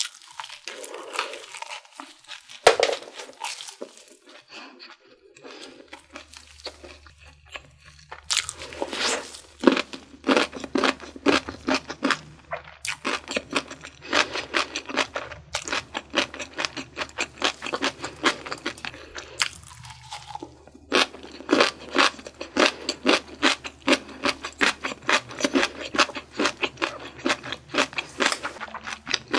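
Close-miked crunchy chewing of fried chicken and french fries, a rapid crackle of crisp bites in bouts with short pauses between them.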